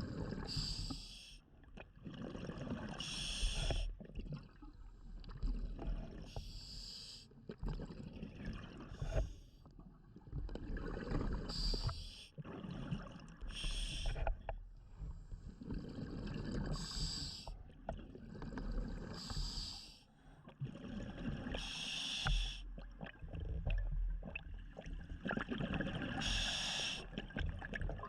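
Scuba diver breathing through a regulator underwater: a short hiss of the inhale every two to three seconds, alternating with the low bubbling rumble of each exhale.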